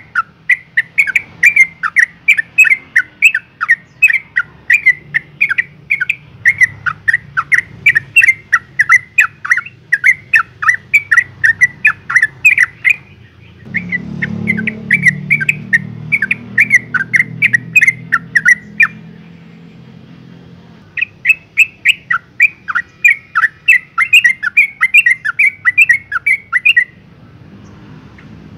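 Yellow-vented bulbul giving long strings of sharp chattering calls, about four a second, with two short breaks. It is the excited call a female in breeding condition gives to draw a male. A low rumble runs under the middle part.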